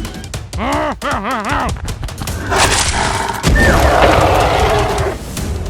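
Cartoon sound effects: a wobbling, wavering cry, then a rushing noise and a heavy boom with a low rumble that lasts a second or two.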